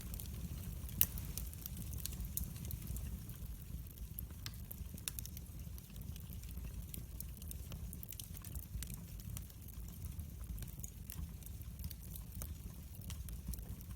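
Wood fire burning in a fireplace: frequent sharp crackles and pops over a low steady rumble, with one louder pop about a second in.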